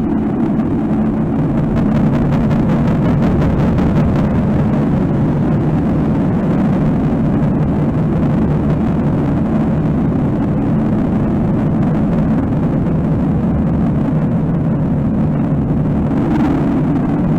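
Loud, steady low rumbling noise drone of a dark ambient noise composition, dense and unbroken, with a brief brighter hiss near the end.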